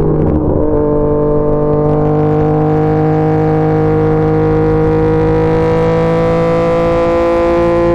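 Yamaha MT-09's three-cylinder engine through an SC Projects CR-T aftermarket exhaust, heard on board under acceleration. The engine note shifts to a new pitch within the first second, like a gear change, then climbs slowly and steadily as the bike pulls in that gear.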